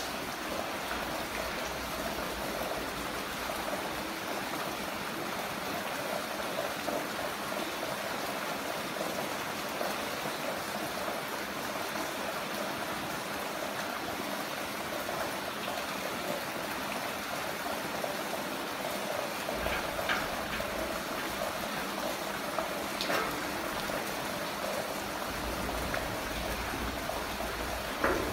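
Heavy rain falling steadily, an even hiss of water, with a few sharper drops or splashes in the last third.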